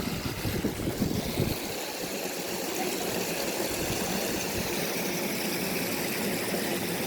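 Car engine running steadily, with gusts of wind on the microphone in the first second and a half.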